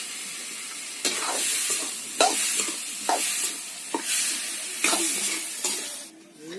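Jackfruit pieces sizzling as they fry in oil in a steel pan, stirred with a scraping stroke against the pan about once a second. The sizzle cuts off suddenly near the end.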